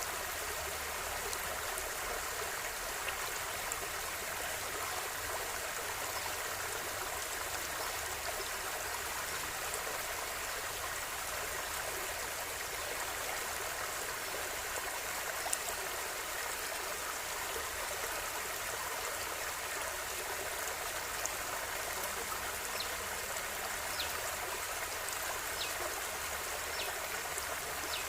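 River water flowing steadily: an even, unbroken rushing, with a few brief light ticks from the water, more of them near the end.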